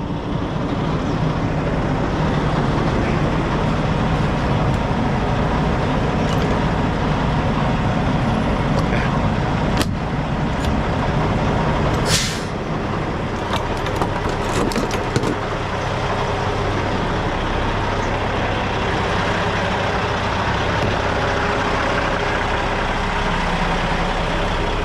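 Semi truck's diesel engine idling steadily, with one short, sharp hiss of released air about twelve seconds in and a few light clicks and knocks around it.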